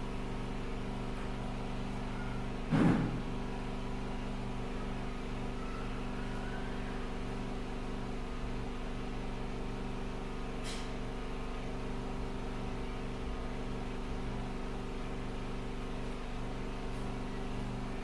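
Steady machine hum made of several fixed low tones, with one short, louder knock about three seconds in.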